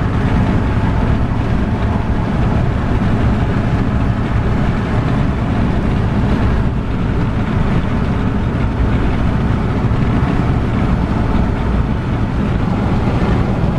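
Steady, loud rushing noise of a moving vehicle, with road and wind noise over a constant low hum.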